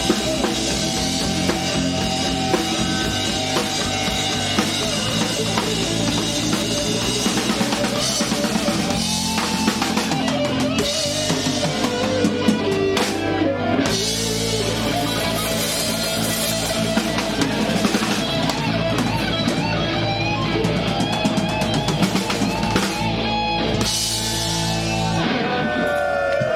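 Live rock band playing with a drum kit and guitars: a steady, loud passage of rock music without words.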